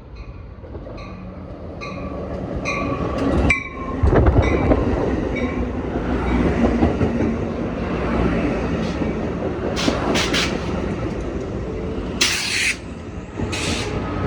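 A train approaching and passing close by. Regular clacks about once a second grow louder, then a loud, steady rumble sets in about four seconds in, with a few short high-pitched squeals near the end.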